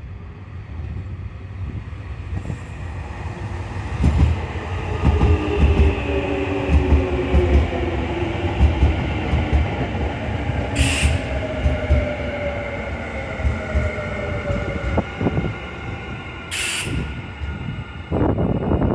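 Electric commuter train running through the station, its wheels clattering over rail joints under a motor whine that slowly falls in pitch as the train slows. Two short sharp hisses come partway through.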